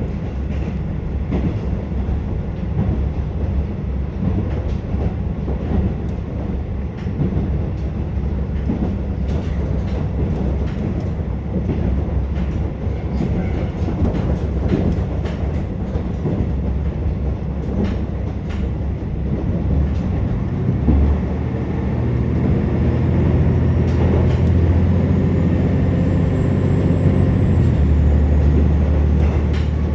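Interior running noise of a KiHa 47 diesel railcar: a steady low rumble of the underfloor diesel engine and wheels on the track, with frequent clicks of the wheels over rail joints. About 21 seconds in, the engine drone gets louder and deeper-toned.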